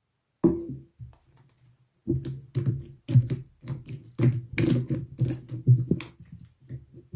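Slime being squeezed and pressed by hand: one pop about half a second in, then from about two seconds a quick, irregular run of sticky pops and clicks.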